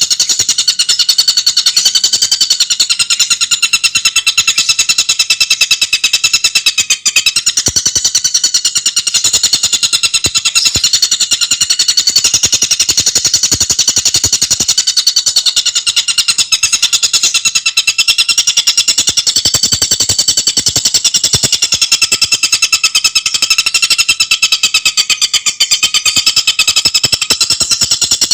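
Tengkek buto bird singing a fast, unbroken rattling trill: rapid even notes run together, high-pitched, with the pitch wavering slowly up and down.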